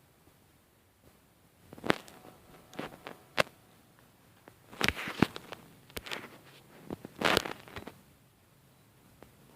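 Firewood cracking and crackling: scattered sharp cracks starting about two seconds in, with a couple of longer rustling bursts midway.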